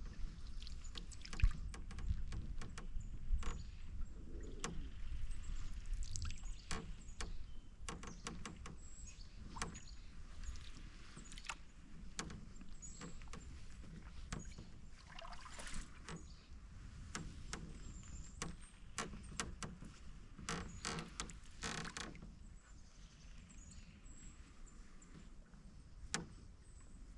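Quiet sounds of a canoe being paddled: paddle strokes in the water, with many small clicks and knocks from the creaky hull.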